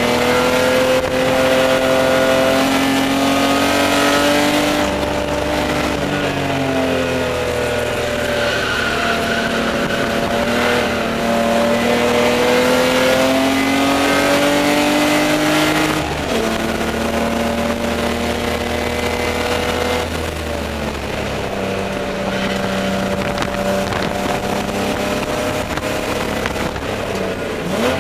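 Spec E30 BMW's straight-six engine at racing speed, heard inside the stripped cabin. The revs climb and fall repeatedly, with sharp drops about five, sixteen and twenty seconds in.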